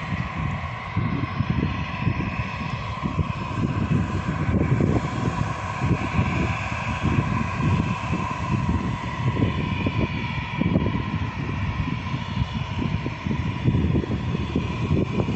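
Jet airliner's engines whining steadily over a deep, fluttering rumble.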